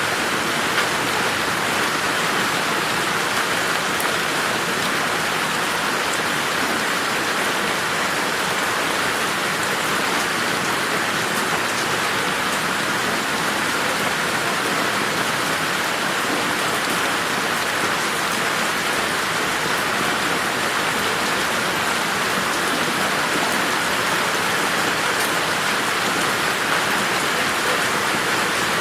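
Steady rain falling in a garden: an even hiss of rain, with faint drop ticks here and there.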